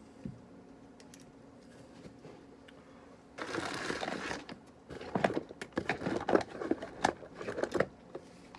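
Rummaging through small objects: a brief rustle, then a quick run of clicks and clatters as things are picked up and moved.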